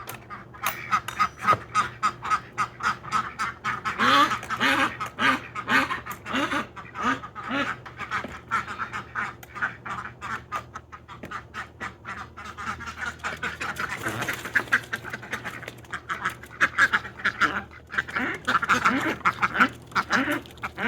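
Domestic ducks quacking in quick, overlapping calls, several a second, without a break.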